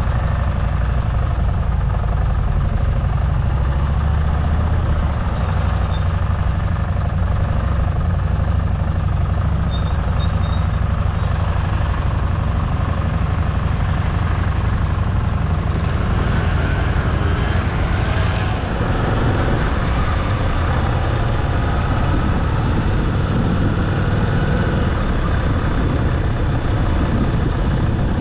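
Harley-Davidson motorcycle's V-twin engine running steadily under way, a low drone with road and wind rush. A rushing noise swells for a few seconds about two-thirds through.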